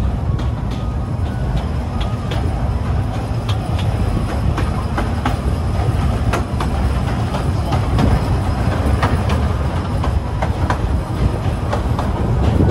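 Kurobe Gorge Railway narrow-gauge trolley train rolling along the track: a steady low rumble with irregular sharp clicks and clacks of the wheels on the rails.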